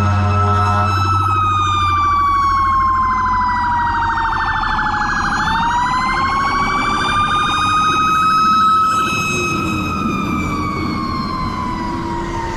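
Emergency vehicle siren wailing: one slow cycle, the pitch falling for about five seconds, rising back, then falling again. A low rumble underneath fades out about two seconds in.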